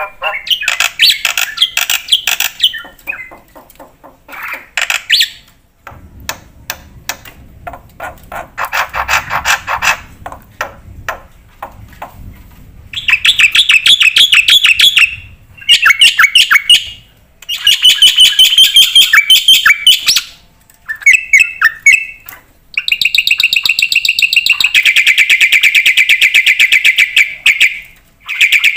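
Black-winged starling (jalak putih) singing loudly in a long, varied song of rapid clicking rattles and harsh chattering phrases, ending in a long, fast buzzing trill.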